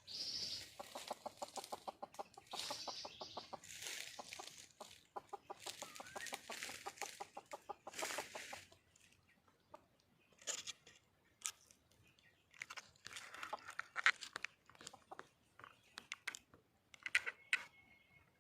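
Red junglefowl hen clucking in fast runs of about nine clucks a second, three runs in the first nine seconds, calling for a mate. Scattered sharp clicks and taps follow.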